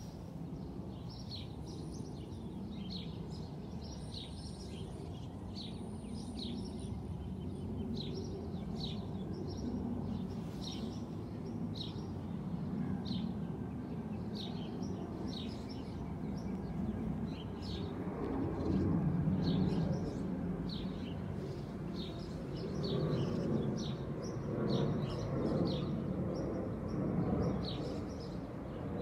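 Small birds chirping over and over, short high chirps about once or twice a second, over a low background rumble that swells louder about two-thirds of the way through and again near the end.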